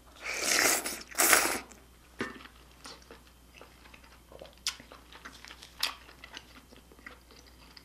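Two loud slurps of yukgaejang, Korean spicy beef soup, in the first couple of seconds, followed by quiet chewing with small scattered mouth clicks.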